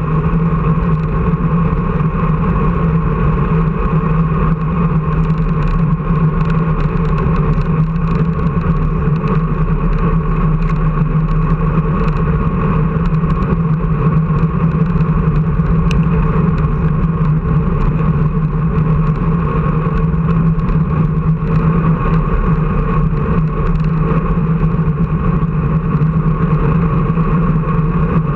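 An engine running at a steady speed: a loud, constant drone that holds one pitch, with no revving.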